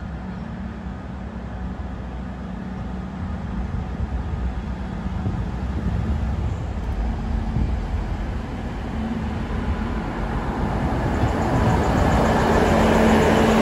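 Passenger train pulling into the platform. Its rumble grows steadily louder as it approaches, and a low steady hum comes in during the second half, loudest as the carriages come alongside near the end.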